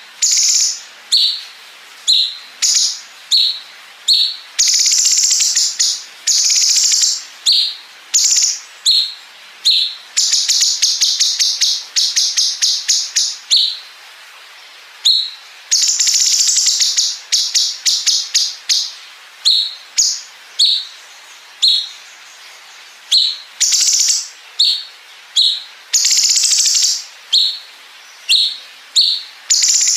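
Cucak cungkok song: short sharp chirps repeated about every half second to a second, alternating with long, fast machine-gun-like rattling trills ('bren') of one to three seconds, four times.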